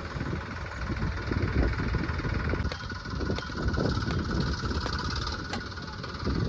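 Tractor engine running steadily, a fast, even low firing rumble, with a few faint clicks about midway.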